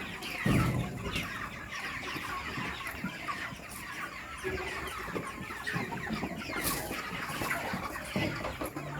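A flock of chickens clucking and calling continuously, many birds overlapping, with a single thump about half a second in.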